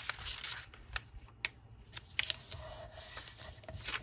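Paper pages and card being handled and shuffled on a table: soft rustling with a few light sharp taps.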